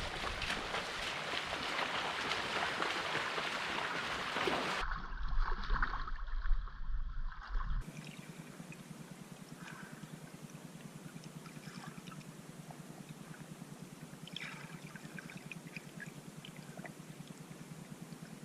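Water sounds: splashing and gurgling noise for about the first five seconds, then a louder low rumbling passage. About eight seconds in it cuts to a much quieter steady low hum with faint scattered ticks.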